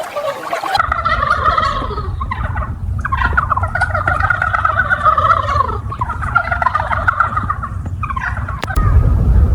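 Domestic fowl calling: four rapid, warbling calls in a row. A steady low rumble sits underneath and gets louder near the end.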